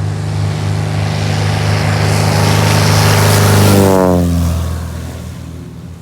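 Propeller airplane passing close by on its takeoff run: a loud, steady engine-and-propeller drone that swells, drops sharply in pitch as it goes past about four seconds in, then fades away.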